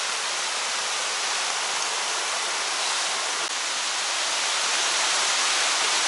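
Steady rushing of a mountain stream's flowing water, a full even hiss that grows a little louder near the end.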